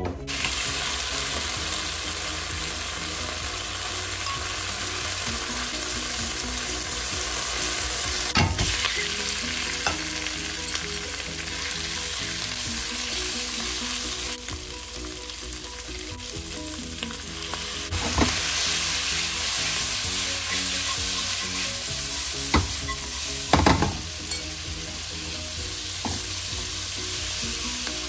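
Raw shrimp and onions sizzling as they stir-fry in a hot stainless honeycomb-textured wok, stirred with wooden chopsticks. There are four sharp knocks, one about a third of the way in and three more in the second half.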